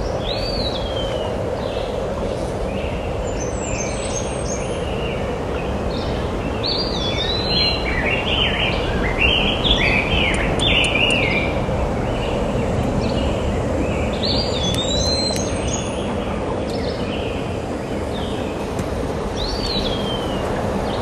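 Small birds calling outdoors. There are a few clear down-slurred whistles and, in the middle, a quick run of chirping notes, over a steady low rushing background noise.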